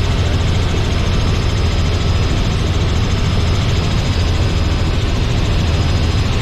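Robinson R44 helicopter in flight: a steady, loud drone of engine and rotor with a strong low hum.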